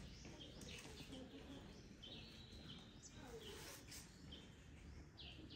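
Faint bird chirps and short whistled calls, some falling in pitch, scattered over a low background hiss.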